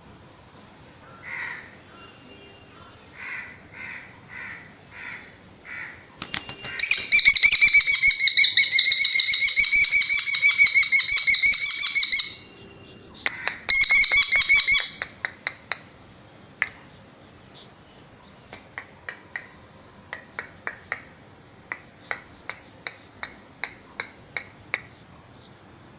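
A bird calling: a few short calls, then a loud, long run of rapid repeated calls lasting about six seconds, a second shorter run, and then a string of short sharp clicks.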